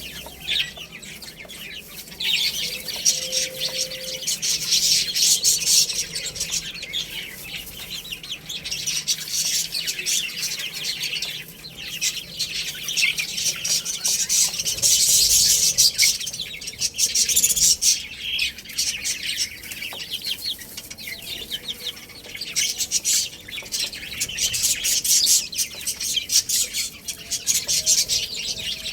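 A group of young chicks chirping together in a dense, continuous high-pitched chatter that swells and fades in loudness.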